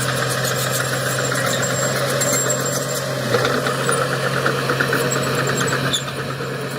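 Diesel engine of heavy earthmoving machinery running steadily at a low idle-like hum. About three seconds in, a fast clicking and rattling joins it, easing off near the end.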